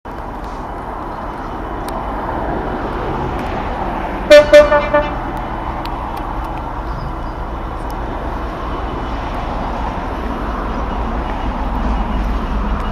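Class 66 diesel freight locomotive sounding two short toots on its horn about four seconds in, over the steady low rumble of the approaching train, which grows louder toward the end.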